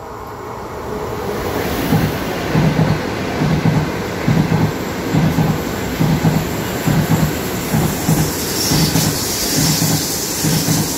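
A high-speed electric train passing close by at speed. The rush swells over the first two seconds as it nears, then settles into a steady roar of wheels on rail with a regular low clatter, a little more than one beat a second, as the bogies go by.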